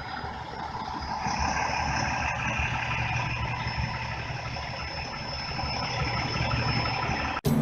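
Heavy truck engine running steadily under an oversized load, with a thin high whine over the rumble from about a second in; the sound cuts off abruptly near the end.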